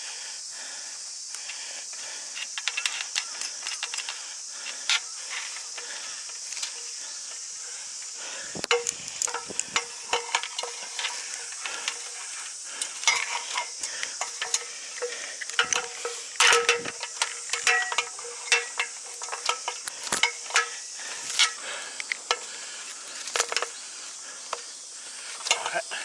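A steady, high insect drone runs throughout, with scattered sharp clicks and metallic clinks of climbing gear being handled, growing much denser from about eight seconds in.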